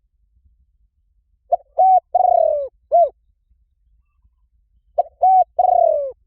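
Spotted dove cooing: two phrases of four notes, about three and a half seconds apart, each with a longer falling third note. It is the call used to lure wild doves.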